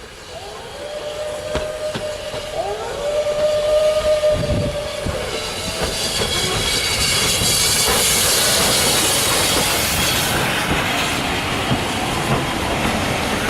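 A train running on rails, with a wavering high tone for the first few seconds, then a rushing hiss that grows louder from about five seconds in.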